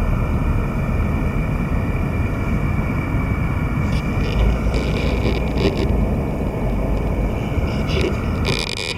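Lexus GS450h hybrid's 3.5-litre 2GR V6 engine running steadily, with a few short clicks about halfway through and again near the end.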